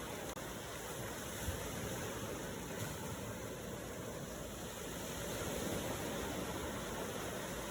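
Ocean waves washing in a steady rushing surf, swelling a little near the end, with a brief dropout in the sound just after the start.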